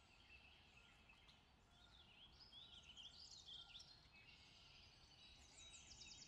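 Very faint birdsong: several birds chirping and warbling, with a fast trill of short falling notes near the end.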